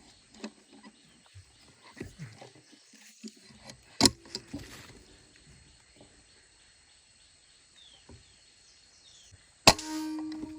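Two sharp shots from a PCP air rifle, one about four seconds in and one near the end, the second followed by a lingering steady hum.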